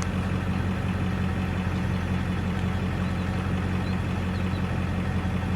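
Vehicle engine running steadily: a constant low hum under an even hiss.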